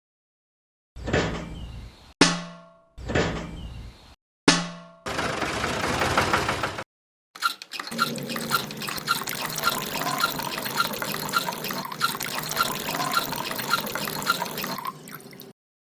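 Water pouring and dripping from a small homemade water pump, heard in short clips with abrupt cuts. Early on two clips each end in a sharp hit that rings away. The longest stretch is a steady flow with a faint tick about twice a second.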